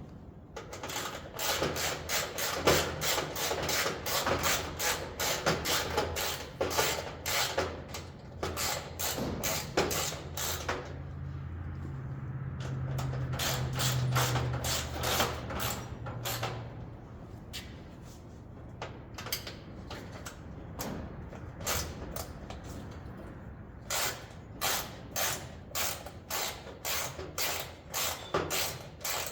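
Hand ratchet clicking in runs of quick strokes, with a low hum swelling for a few seconds in the middle.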